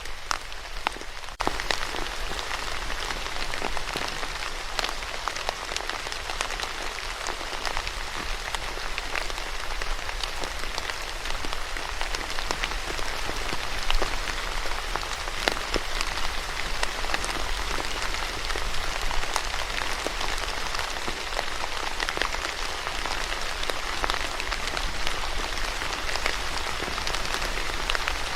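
Steady rain falling, with many separate drops ticking through an even hiss; it gets a little louder about a second and a half in.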